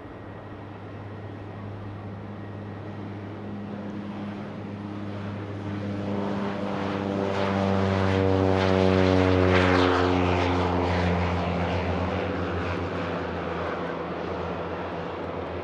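Aircraft passing close by. The engine noise swells to a peak about ten seconds in, its pitch sliding downward as it goes past, then fades.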